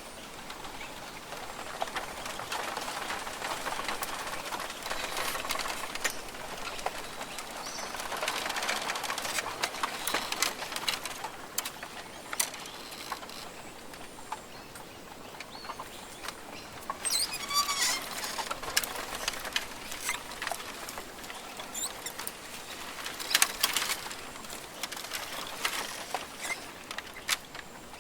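Rainforest ambience: a steady rustling, pattering background with many small sharp clicks and taps, a few short bird calls, and a faint steady high insect tone.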